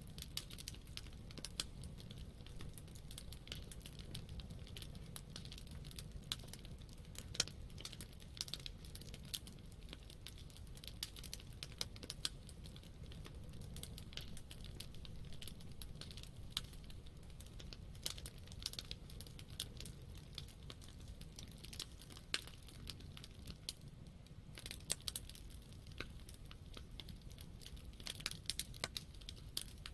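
Wood campfire burning: irregular crackles and sharp pops from the burning wood over a low, steady rumble of the flames.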